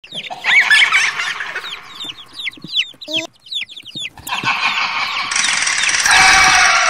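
Chicks peeping in many quick, falling cheeps, with a hen's short low cluck about three seconds in. From about four seconds in the peeping thickens into a dense chorus of many chicks.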